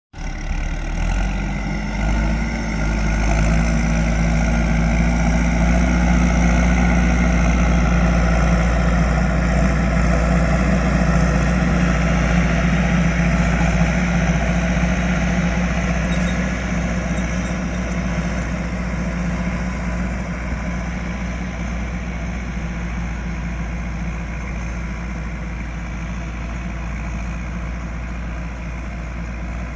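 Landini 9080 tractor's diesel engine running steadily. It builds over the first few seconds, holds, then slowly grows quieter through the second half.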